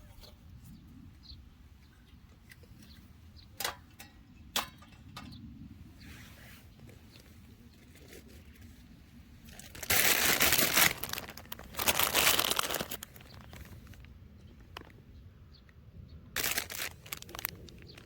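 Packaging being crinkled and torn open, with two loud rustling bursts about ten and twelve seconds in and a shorter one near the end, after a couple of sharp clicks.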